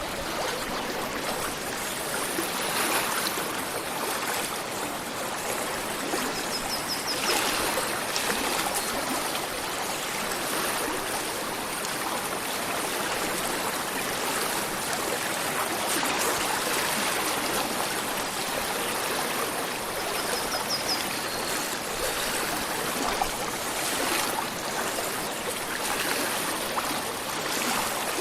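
Stream flowing steadily. A bird gives a short series of high chirps twice, about seven seconds in and again about twenty-one seconds in.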